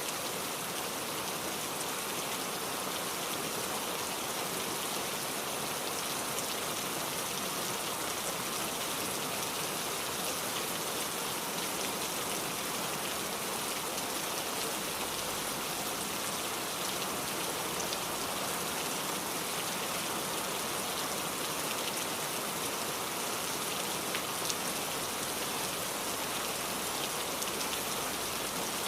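Steady rainfall, an even hiss of falling rain with scattered individual drops ticking on a surface.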